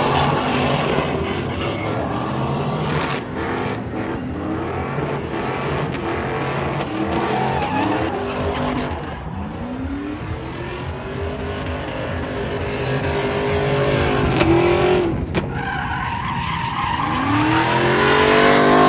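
Car or truck engines revving up and down, with tyres skidding and spinning out.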